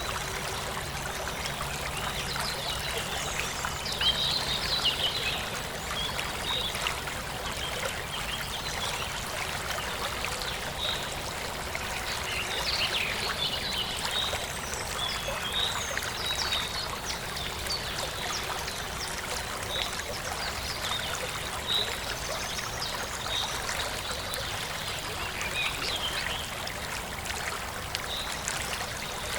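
Forest stream running steadily, with birds chirping and calling over the water throughout.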